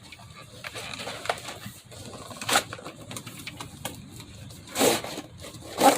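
Tool packaging being handled: rustling with a few sharp knocks, one about two and a half seconds in and two near the end.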